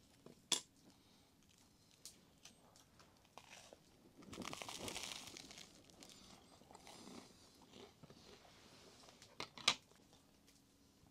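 Quiet eating and handling sounds: a few sharp clicks and taps, the loudest about half a second in and near the end, with a crinkling rustle for about two seconds from four seconds in.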